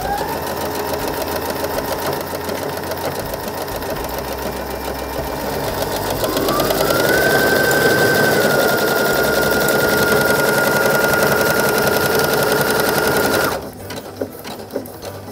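Brother NQ470L computerised sewing machine sewing an automatic buttonhole: the motor whines and the needle runs steadily, speeding up about six seconds in. It stops abruptly near the end as the machine halts on its own with the buttonhole finished.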